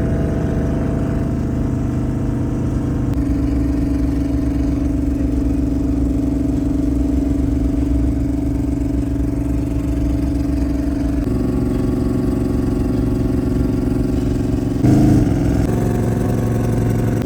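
LS-swapped twin-turbo limousine's V8 engine droning at a steady cruise, its pitch shifting slightly twice, with a brief louder burst near the end.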